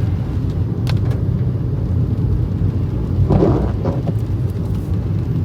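Car engine and road noise, a steady low rumble heard from inside the moving car.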